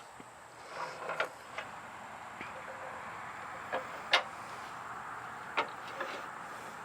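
A handful of scattered light clicks and knocks over a faint steady hiss; the sharpest knock comes about four seconds in.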